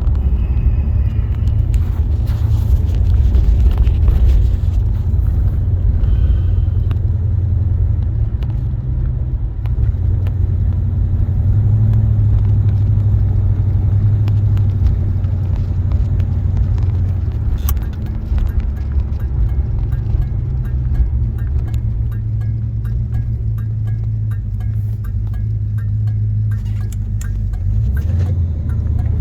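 A 1976 Oldsmobile Cutlass Salon's 455 Rocket V8 and its tyres giving a steady low rumble as the car drives at low speed, heard from inside the cabin. A faint, regular ticking comes in over the last several seconds.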